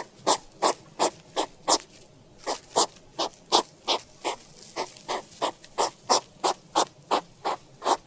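An animal's call repeated as a rapid, even series of short, sharp squeaks or chirps, about three a second.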